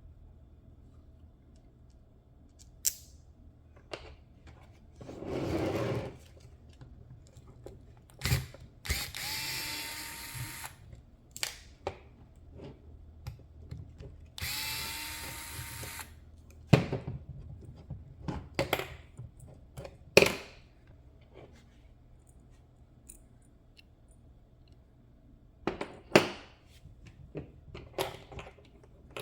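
Electric screwdriver spinning in two bursts of about two seconds, backing out screws. Between the bursts come scattered clicks and knocks of small parts being handled.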